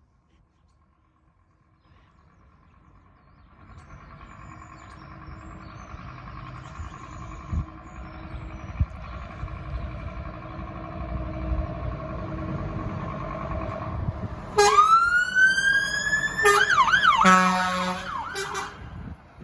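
Fire engine's engine running and growing louder, then about three-quarters of the way in its siren comes on with a rising wail and switches to a fast warbling yelp, cutting off shortly before the end.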